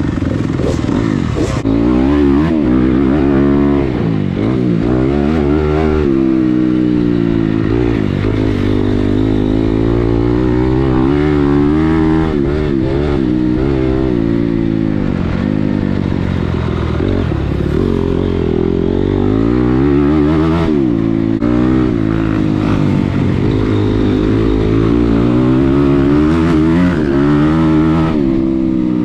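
Motocross dirt bike engine being ridden hard, its pitch climbing and dropping again and again as the throttle is opened and shut and the gears change.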